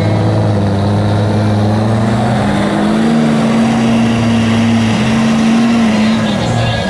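Big engine of a mud-bogging truck running with a steady drone, its pitch rising about two and a half seconds in, holding, then dropping near the end.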